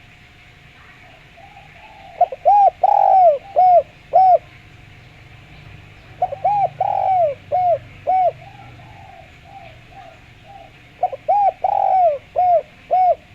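Spotted dove (derkuku) cooing: three phrases, each a quick run of several arching coo notes, a few seconds apart.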